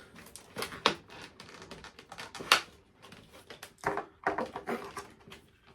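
Plastic packaging tabs and cardboard of a doll box clicking and crackling as the doll is pulled free, in a string of irregular sharp clicks and snaps. The loudest snap comes about two and a half seconds in.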